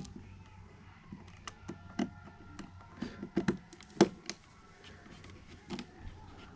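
Scattered light clicks and taps of hand work on thermostat wiring, the loudest about four seconds in, over a faint steady hum.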